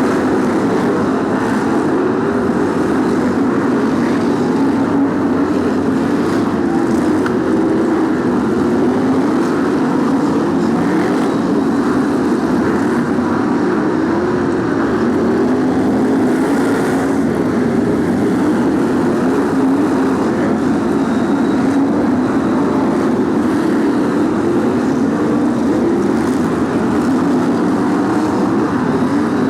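A pack of BriSCA F1 stock cars' V8 engines running together, loud and continuous, the engine note wavering up and down as the cars lap.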